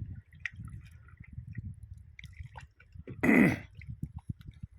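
Low, uneven rumbling with one short, loud vocal noise from a person about three seconds in, falling in pitch.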